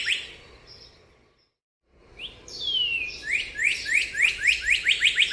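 A bird chirping: a fast run of short rising chirps fades out, and after about a second of silence a new run begins with a few notes and one falling whistle, then chirps speeding up to about six a second.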